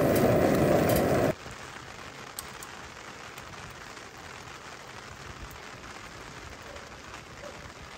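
A loud low rushing noise cuts off abruptly about a second in. After it comes the steady, even patter of rain.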